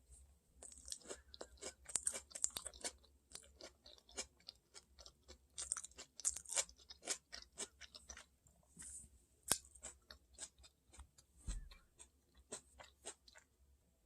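A person chewing and crunching food close to the microphone: a run of irregular crisp crunches that stops about 13 seconds in.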